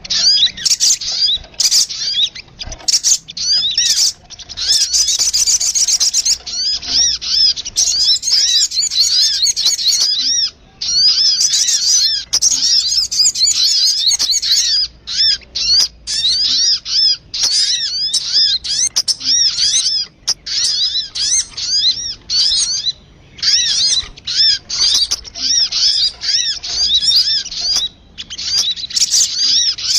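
Lure-call recording of the sogun bird: dense, rapid high chirps repeated in long busy runs, with brief breaks between them.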